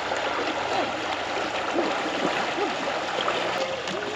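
Fast-flowing river water rushing steadily, from the Albert River's strong current.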